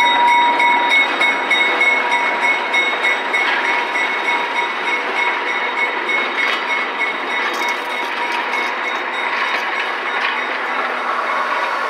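Diesel-electric locomotive and passenger coaches rolling slowly past at close range, with a steady noise of wheels on the rails. A thin high whine fades out about nine seconds in as the locomotive moves away and the coaches pass.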